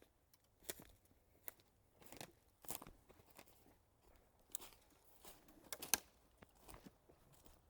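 A series of irregular, crisp crunches and crackles, about a dozen, with no steady rhythm; the loudest comes about six seconds in.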